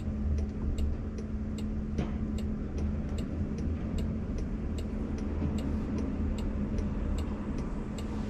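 Car's turn-signal indicator ticking steadily inside the cabin, the left signal on for a lane change, over a low, steady cabin hum.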